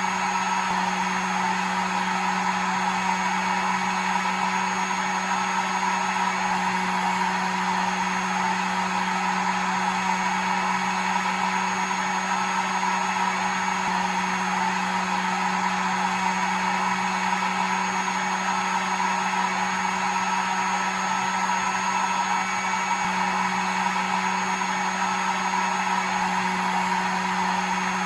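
Hair dryer running continuously at a steady speed: an even rushing blow with a low hum and a thin high whine, no change in pitch or level.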